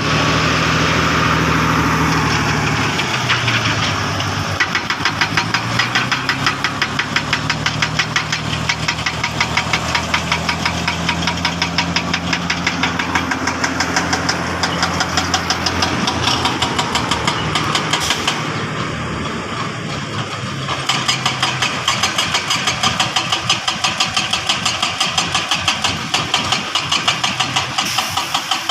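Heavy construction machine's diesel engine running close by with a rapid, even clatter. Its pitch shifts in the first few seconds.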